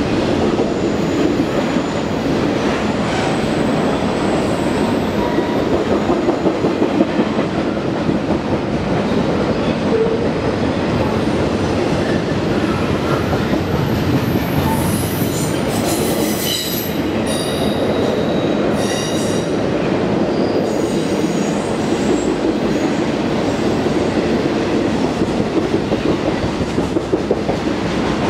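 Double-stack intermodal freight train rolling past, its wheels rumbling steadily on the rails, with rhythmic clacks of wheels over rail joints. About halfway through, the wheels squeal in high tones for several seconds.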